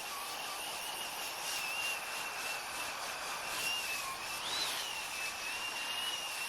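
Belt sander running against the steel face of an anvil, dressing it flat: a steady high whine over a gritty hiss. The pitch wavers slightly and rises briefly about halfway through as the load shifts.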